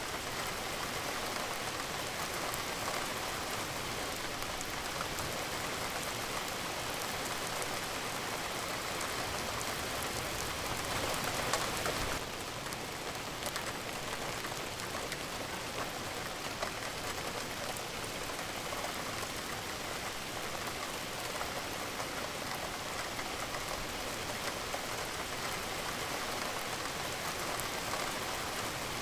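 Steady rain falling, with the ticks of single drops scattered through it. The rain swells briefly and then drops back abruptly about twelve seconds in.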